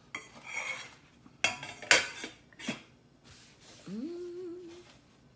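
Eating at a table: a short rustle, then three sharp clicks of utensils against dishes, then a brief rising hummed "mm" near the end.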